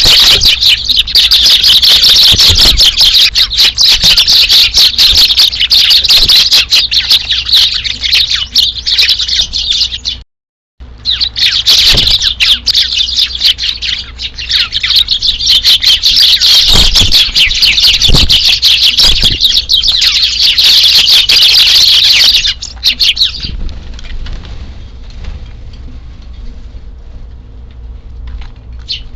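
A flock of Eurasian tree sparrows chirping densely and continuously. The sound drops out for a moment about ten seconds in. The chirping thins out and grows quieter for the last several seconds.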